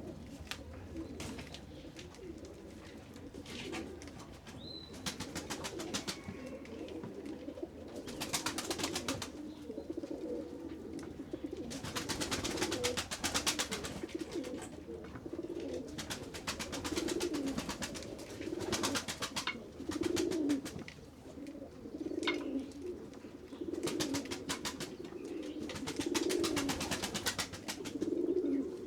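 A flock of pigeons cooing steadily over one another, with bursts of rapid clicking or tapping lasting a second or two, several times, a little after the start and through the second half.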